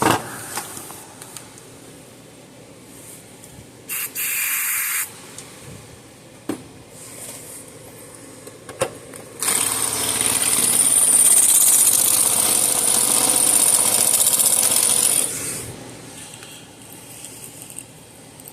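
Electric drill drilling out a screw head: a short burst about four seconds in, then about six seconds of steady drilling with a high whine, the bit grinding into the metal screw.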